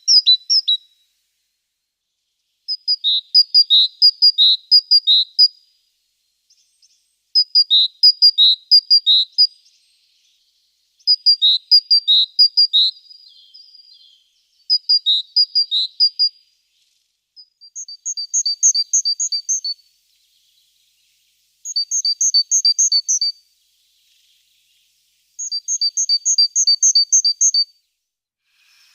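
Great tit singing its repeated two-note song, seven phrases of quick alternating high and lower notes with short pauses between them; the later phrases sit higher in pitch.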